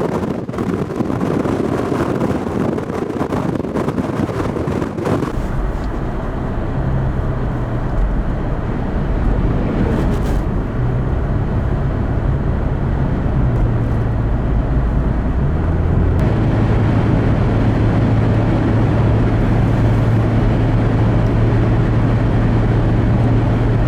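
Gusty wind on the microphone for about the first five seconds, then the steady low drone of a vehicle driving, heard from inside the cabin, which settles into an even hum about two-thirds of the way in.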